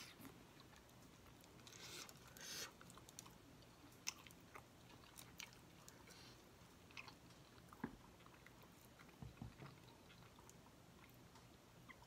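Faint mouth sounds of someone chewing pieces of rotisserie chicken: scattered soft clicks and smacks, with two brief hissy noises about two seconds in.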